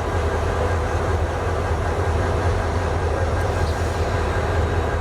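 Passenger train rolling into a station: a steady, loud low rumble of the diesel locomotive and the coaches' wheels on the track.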